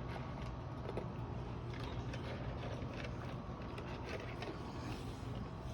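Dog chewing and crunching dry kibble: irregular crunches and clicks over a steady low hum.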